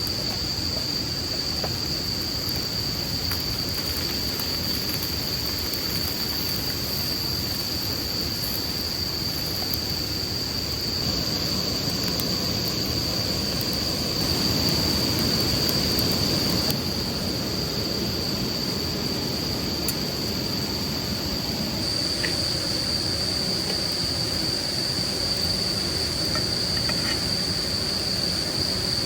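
Crickets trilling in a steady, high-pitched chorus over a constant low rumble of background noise.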